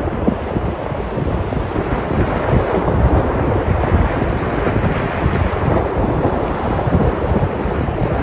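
Sea surf washing and breaking on the shore, a steady rushing noise that swells a little in the middle.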